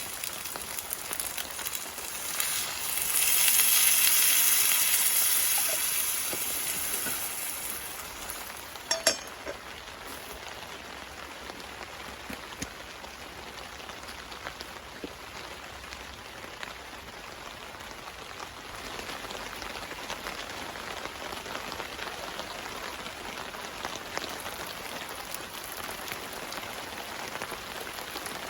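Steady rain pattering on a tarp. Near the start, a louder hiss swells and fades over several seconds, and there is a sharp click about nine seconds in.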